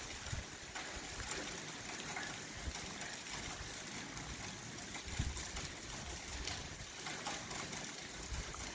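Steady rain falling on wet paving and garden beds: an even hiss of drops. A low rumble of wind hits the microphone about five seconds in.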